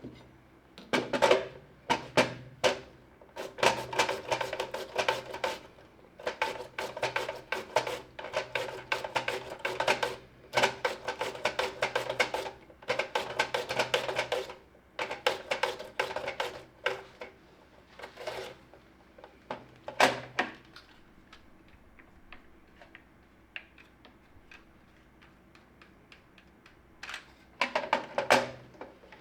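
Kitchen knife chopping fast on a cutting board, in long runs of quick strokes with short pauses between them, then a quieter spell and a last run near the end.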